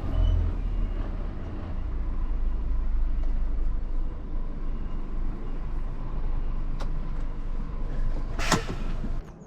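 Heavy goods truck's engine idling with a steady low rumble as it stands parked. A brief loud hiss comes near the end, and then the rumble stops abruptly.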